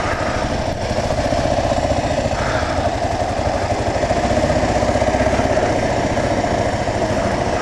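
2009 Kawasaki KLR 650's single-cylinder four-stroke engine running at a steady speed, its note holding even throughout.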